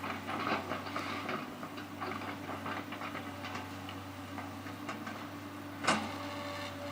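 Case excavator working, its diesel engine running steadily under a run of metallic clanks and rattles, with one sharp loud bang about six seconds in.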